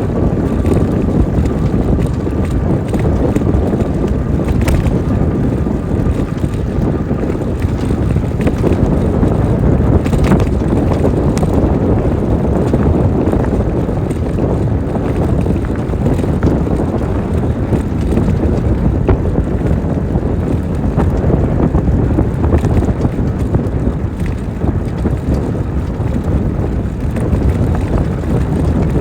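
Wind buffeting the microphone while riding an e-bike: a loud, steady, rumbling noise with no letup. A faint thin whine sits under it for the first several seconds.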